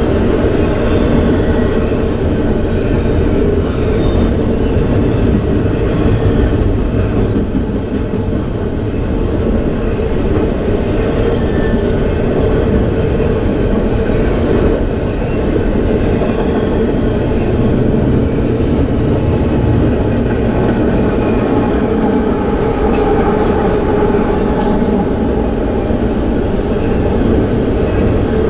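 CSX double-stack intermodal freight train rolling past: a steady, loud rumble and clatter of wheels on rail, with a few sharp high clicks late on.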